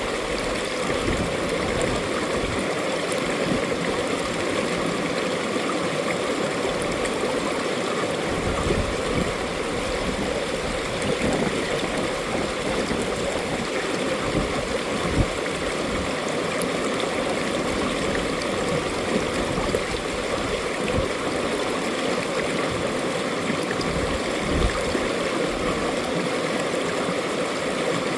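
Mountain valley stream flowing with a steady rush and gurgle of water.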